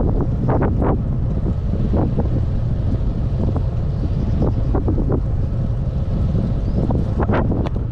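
Strong wind buffeting a GoPro Hero 8's microphone while riding a road bike: a loud, steady low rumble broken by many short, sharp buffets.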